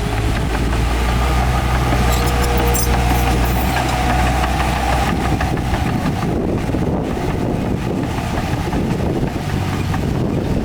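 Heavy diesel engine of earthmoving machinery running steadily, fading to a fainter, noisier background about halfway through.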